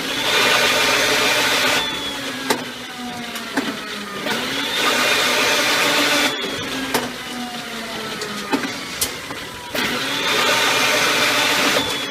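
Electric motor of a 220 V rebar-working machine running in cycles. Three times it runs loud for about two seconds, then winds down with a falling whine, with sharp metallic clicks in between.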